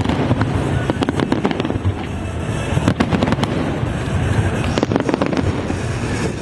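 A fireworks display going off: a dense, continuous barrage of bangs and crackling over a steady low rumble.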